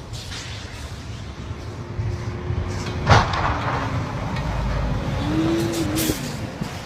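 Vehicle rumble with a single sharp bang about three seconds in, the loudest moment, followed by a wavering tone.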